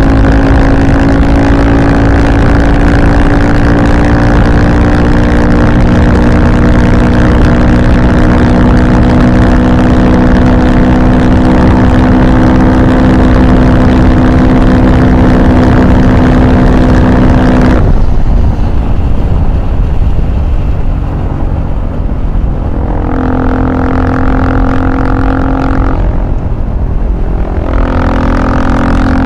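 Engine running at steady revs under throttle with an unchanging pitch, then the throttle closes and the engine tone falls away; it comes back on twice briefly near the end.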